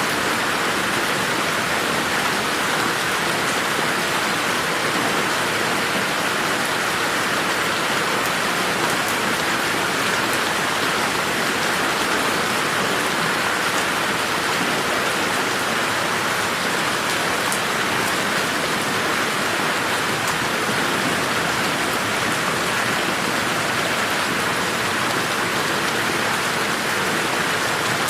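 Steady rain falling on a garden, an even hiss of drops on surfaces with no thunder or breaks.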